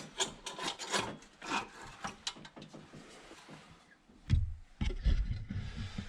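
Rubbing, scraping and clicking of things being handled, then a few heavy low thumps about four seconds in.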